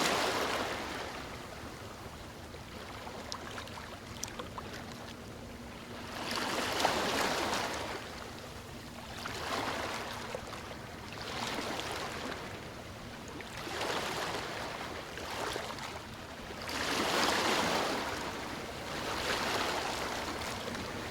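Sea waves washing onto a shore, each wash swelling and fading, about one every two to three seconds, with a steady hiss between them and small sharp clicks here and there.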